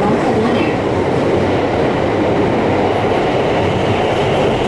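Kintetsu rapid-express train running, heard from inside the passenger car: a steady rumble of wheels on rail.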